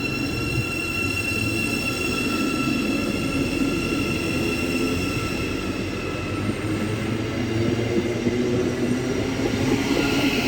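Class 717 electric multiple unit moving through the station, a steady whine from its traction equipment over the rumble of its wheels. The whine fades about halfway through while the rumble carries on.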